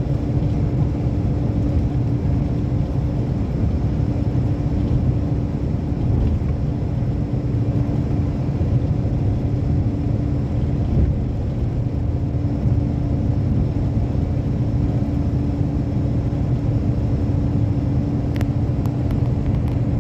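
Passenger train running steadily, heard from inside the coach: a continuous low rumble of wheels on track with a steady hum, and a few faint clicks near the end.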